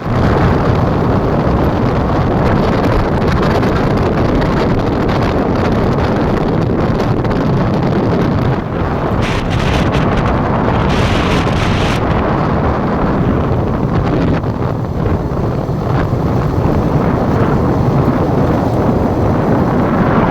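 Wind buffeting the microphone: a loud, steady rumble with a brighter hiss for a few seconds near the middle.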